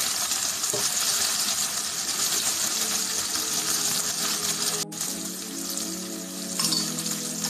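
Pork, tomato and onion sizzling in oil in a frying pan as they are sautéed. Soft background music comes in about three seconds in, with a brief dropout near the middle.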